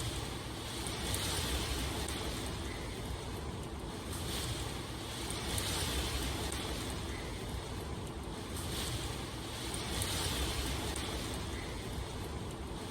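Steady rain, an even hiss that swells and eases every two or three seconds.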